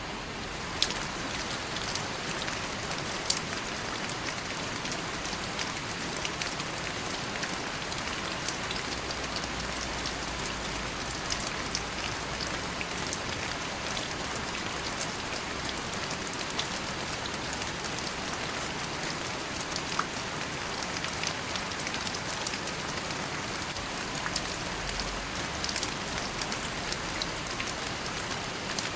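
Steady rain falling on a surface, an even hiss with scattered sharper drips and drops landing close by.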